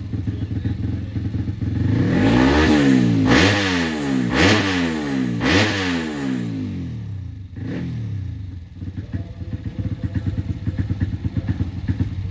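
Motocross bike engine idling, then revved four times in quick succession, each rev climbing and dropping in pitch, before settling back to idle.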